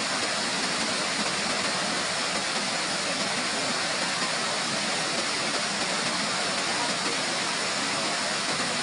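Waterfall: the steady rush of falling water, an even hiss that holds at one level without a break.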